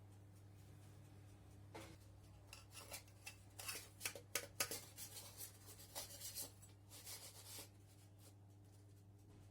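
A run of light clicks, taps and rustles from handling things in a kitchen, over a steady low hum; the handling stops about three quarters of the way through.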